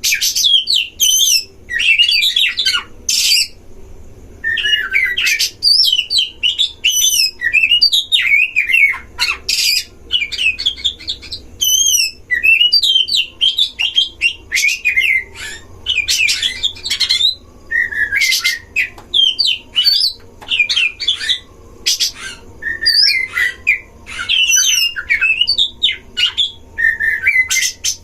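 Oriental magpie-robins (kacer) singing against each other: a continuous, fast, varied whistled song broken every few seconds by short harsh rasping notes.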